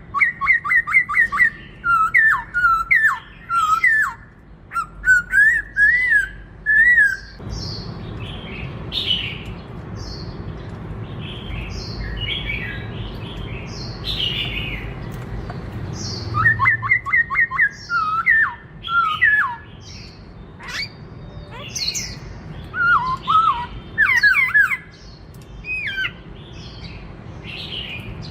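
Black-throated laughingthrush singing: rapid runs of loud, clear whistled notes sliding up and down. In the middle the song changes to softer, higher scattered notes over a low background rumble, then the loud sliding whistles return.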